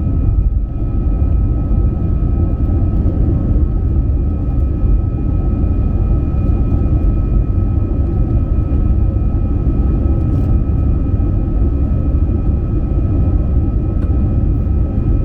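Airbus A320 cabin noise heard from a window seat: the jet engines running with a steady deep rumble and a thin, steady high whine over it.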